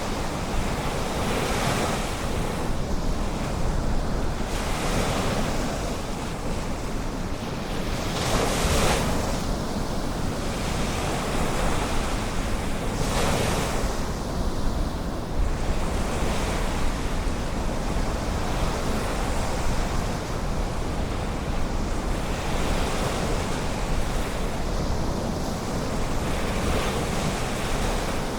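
Ocean surf breaking and washing in: a steady hiss that swells every few seconds, with two louder waves near the middle. A low wind rumble on the microphone sits underneath.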